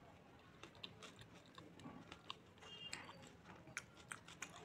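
Faint, irregular clicks and wet mouth sounds of someone chewing a mouthful of palak paneer eaten by hand. Near the end come soft sounds of fingers working the curry on the plate.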